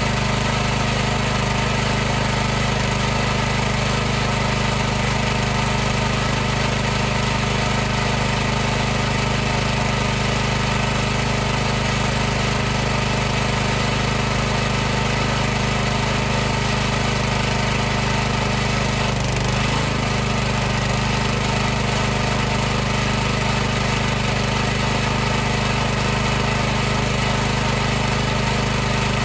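High-pressure washer's motor and pump running steadily: a constant mechanical hum made of many steady tones over a hiss. Its pitch wavers briefly about two-thirds of the way through.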